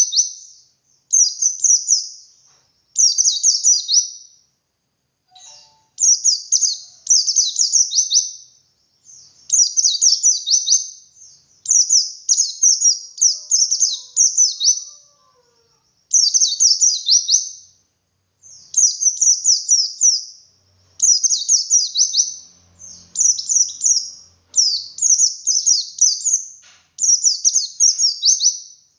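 White-eye (pleci dakun) singing its long 'ngalas' song: rapid, high, descending twittering phrases of about one to two seconds, repeated over and over with short pauses.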